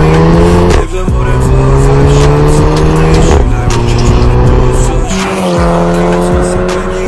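Audi TT with a Magnaflow pre-muffler, resonator delete and stainless pipes, accelerating hard through the gears: the exhaust note climbs steadily, drops at an upshift about a second in, climbs again, and shifts twice more, around three and a half and five seconds in. Background music with a beat plays along.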